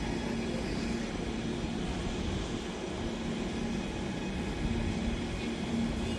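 A train running past: a steady rumble with a low, steady hum that fades in and out.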